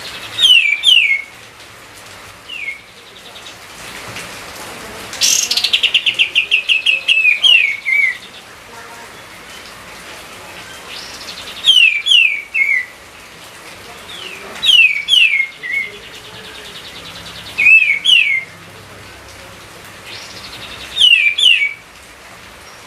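A songbird singing short phrases of two or three quick downward-sliding whistles every few seconds, with one long, fast trill that falls in pitch about five seconds in, over a steady faint hiss.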